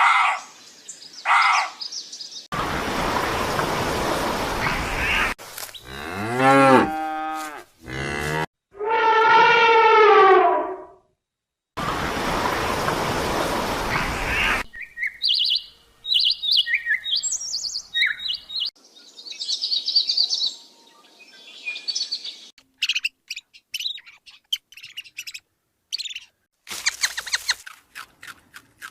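A string of animal calls cut one after another: short bird chirps, then long, wavering cow moos, a hissing noisy stretch, and a run of high bird chirps and tweets, with scattered clicks near the end.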